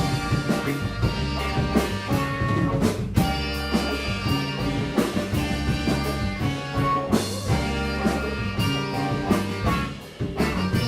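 A band playing live: a drum kit keeps a steady beat under bass and guitar, and the music thins out briefly just before the end.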